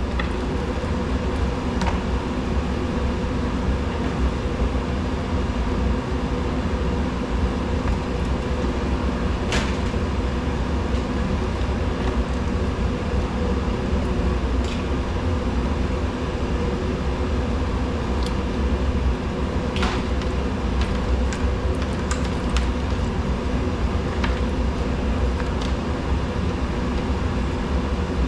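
Steady mechanical drone with a deep hum, and a few light clicks and ticks scattered through it.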